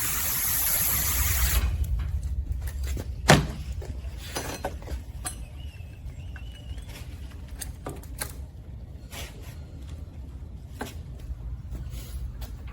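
An aerosol lubricant spraying in a steady hiss for about a second and a half, then a sharp metal click and scattered light clinks of parts being handled.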